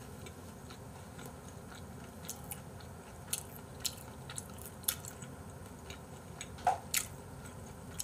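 Close-miked chewing of raw beef: quiet wet mouth sounds with scattered sharp clicks and smacks, a few louder ones in the second half.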